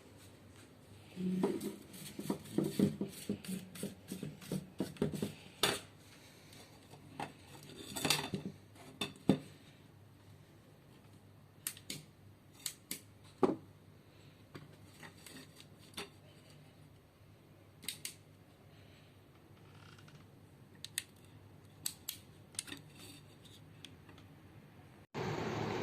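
Irregular small clicks and taps of hard metal and plastic parts being handled and fitted together, busiest in the first few seconds, then sparser.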